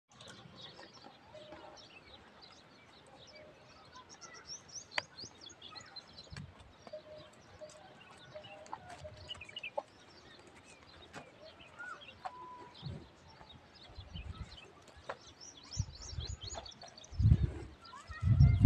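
Small birds chirping and calling, with scattered short high chirps and a few longer calls, and now and then a sharp click. A few low thuds come in the last few seconds and are the loudest part.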